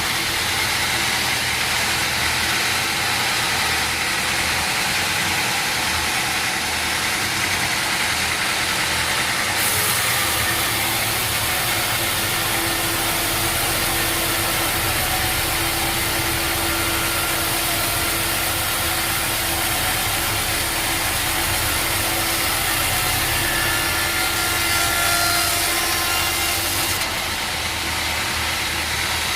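Sawmill machinery running steadily, an engine-like drone with a constant hum. Its sound changes abruptly about ten seconds in and again near the end.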